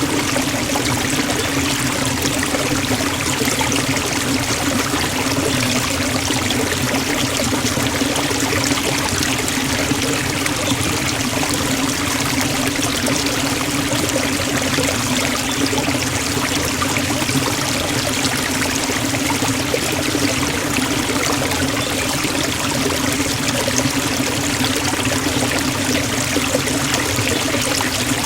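Forest waterfall: water falling and splashing steadily, an even, unbroken rush.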